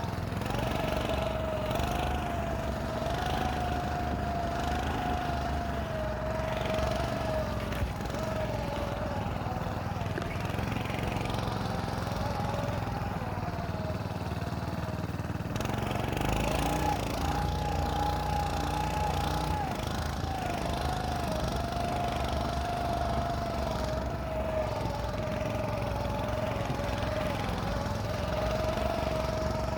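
Small engine of a motorized snow scooter running as it is ridden, its whine wavering up and down in pitch with the throttle. It eases off briefly about halfway through, then picks up again.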